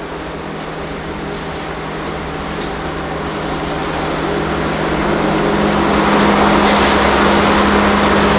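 DD51 diesel-hydraulic locomotive running under power, a steady engine drone growing steadily louder as the train approaches.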